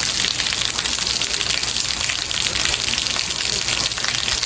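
Steady heavy rain falling, an even hiss with no breaks or single drops standing out.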